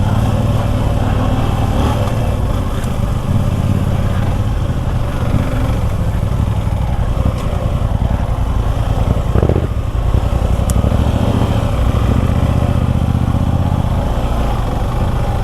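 Suzuki V-Strom 250 SX's single-cylinder engine running steadily while the motorcycle is ridden, with a short knock about nine and a half seconds in.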